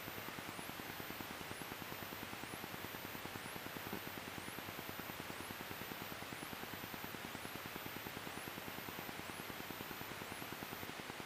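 Steady electrical hiss and buzz on the Cessna 172's intercom audio with the master switch on, carrying a faint high whine that rises about once a second, typical of anti-collision strobe interference.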